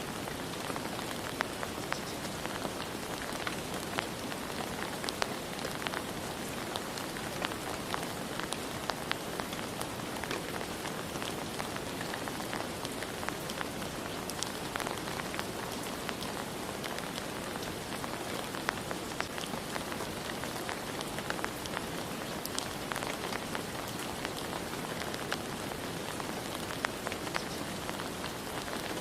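Steady rain falling, with scattered individual drops ticking on a hard surface.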